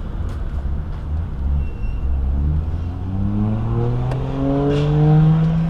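A car engine at low rumble, then its revs climb steadily for about three seconds and hold high near the end, the loudest part.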